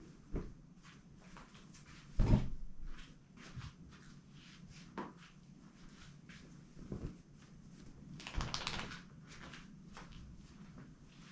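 A clothes drying rack being handled: scattered knocks and clacks, the loudest about two seconds in, with a rustling stretch near the end.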